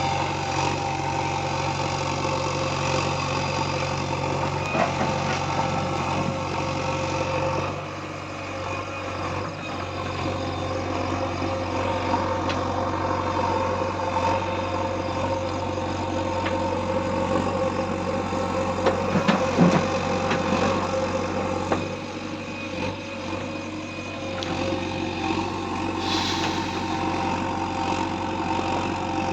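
Diesel engine of a heavy machine running steadily, getting quieter about eight seconds in, with a few short knocks about two-thirds of the way through.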